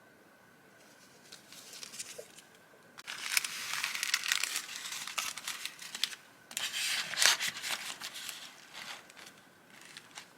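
Paper and packaging crinkling and rustling as it is handled. It is loudest in two spells, from about three seconds in and again from about six and a half seconds, then tails off into a few lighter rustles.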